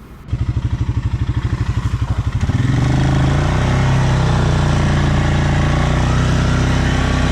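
Stels Leopard 650 YL quad bike's engine idling with an even throbbing beat, then revved hard about two and a half seconds in and held high for around five seconds before dropping back to idle near the end. It is straining to push through snow in rear-wheel drive, which the quad cannot do.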